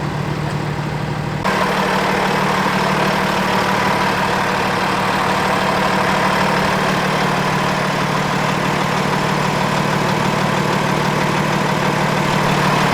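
Truck engine running steadily with a low, even drone. About a second and a half in, the sound abruptly gets louder and brighter, with a hiss over the drone.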